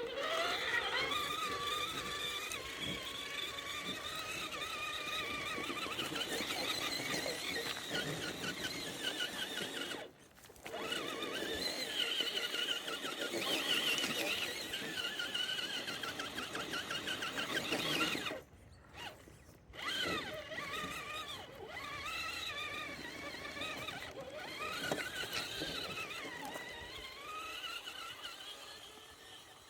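Electric motor and geared drivetrain of an RC crawler truck whining as it drives, the pitch rising and falling with the throttle. The whine stops briefly about ten seconds in and again for a second or two around eighteen seconds.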